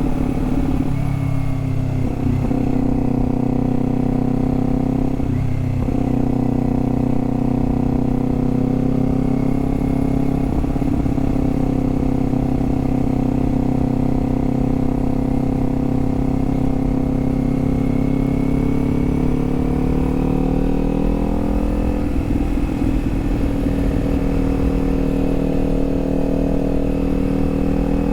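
Kawasaki Z400's parallel-twin engine pulling along at a steady road speed, with two brief dips in its note about two and five seconds in. Its pitch rises about twenty seconds in and then holds at the higher note.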